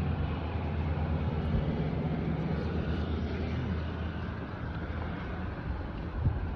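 Steady low mechanical drone from running machinery: a constant hum with an even rushing noise over it.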